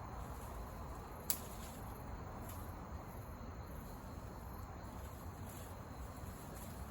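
Wood campfire crackling: a steady low hiss with a sharp pop about a second in and a few fainter ticks after it.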